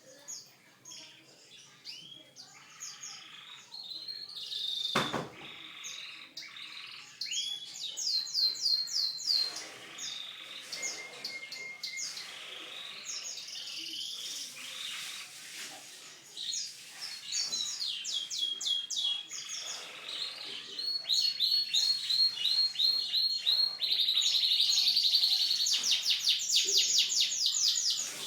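Canary singing a long, varied song of chirps and rapid trills, building to a loud, fast rolling trill in the last few seconds. A single sharp knock sounds about five seconds in.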